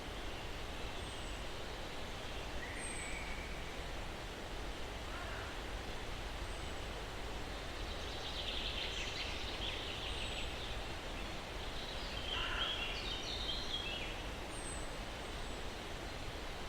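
Steady breeze rustling through pine trees, with scattered bird calls: brief thin high chirps every few seconds, and two longer chattering calls, one about halfway through and one a little later.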